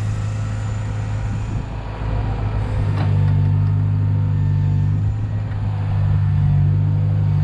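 Heavy machine's diesel engine running steadily, the load coming on and the engine working harder from about two seconds in.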